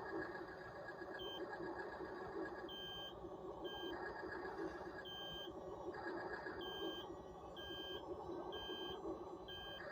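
Remote-control toy track-type tractor running, a steady mechanical whir under a repeating electronic reversing beep, roughly one beep a second.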